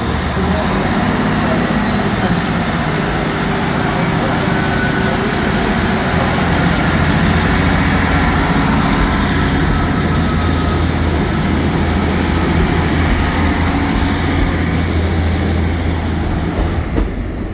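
Class 67 diesel-electric locomotive's two-stroke V12 engine running with a loud, steady low drone.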